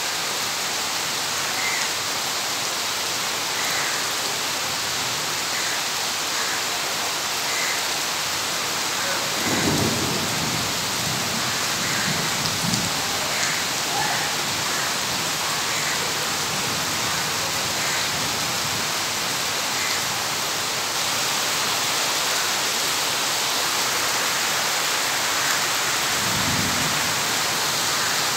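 Steady rain falling, with low rolls of thunder about ten seconds in and again near the end.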